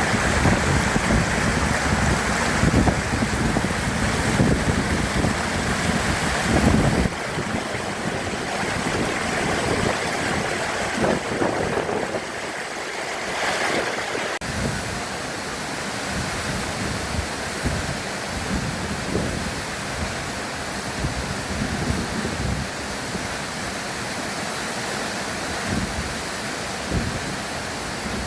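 Waterfall: a steady rush of falling water, with low buffeting on the microphone that is heaviest for the first seven seconds or so.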